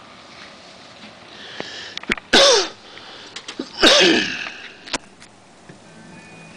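Two loud human sneezes, about a second and a half apart, each with a sharp burst and a falling voiced tail.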